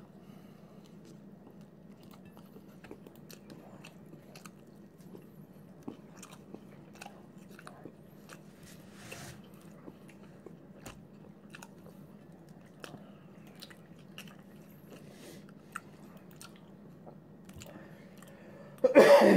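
Close-miked chewing and biting of a soft chicken wrap: small wet mouth clicks over a steady low room hum, with a brief rustle about nine seconds in. A short, louder sound comes near the end.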